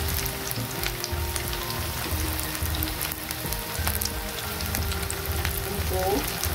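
Gram-flour-battered chicken and potato slices shallow-frying in hot oil in a pan: a steady sizzle with scattered crackles and pops.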